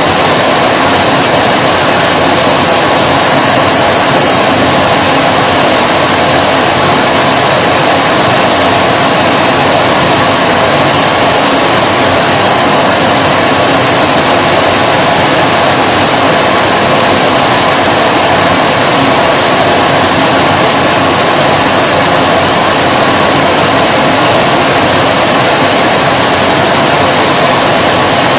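Vacuum cleaner running steadily: an even, loud motor hum with a rushing whine of air.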